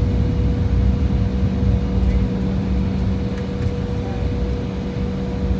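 Steady cabin noise inside an Embraer E175 jet airliner, heard from a seat behind the wing: a low rumble with two steady hums.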